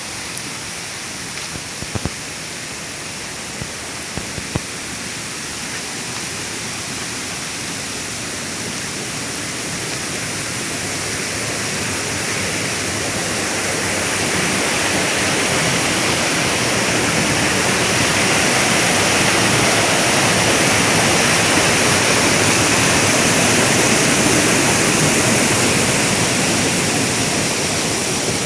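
Rushing water of a rain-swollen mountain stream, a steady loud rush that swells louder in the second half. A few light ticks come in the first few seconds.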